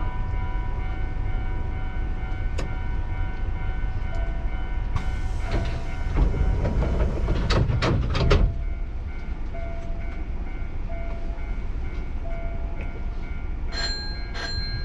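Hankyu 7000-series electric train running, heard from inside the car: a steady rumble of wheels on rail with several steady motor tones. A cluster of sharp clacks from the wheels comes between about five and eight and a half seconds in.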